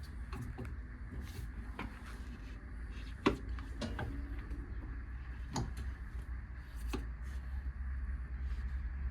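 A handful of sharp clicks and knocks from hands working the fittings of a truck cab, the loudest about three seconds in, over a low steady hum.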